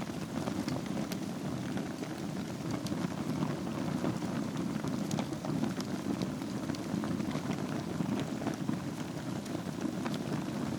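Wood fire burning in a fireplace over a bed of embers: a steady low rushing with frequent small crackles and pops scattered throughout.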